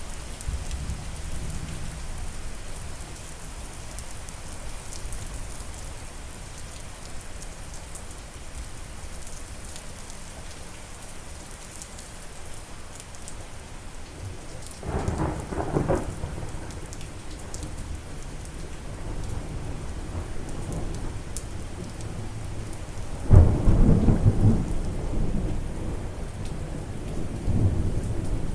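Steady rain falling, with rolls of thunder: a short rumble about halfway through and a louder, longer crack-and-rumble near the end.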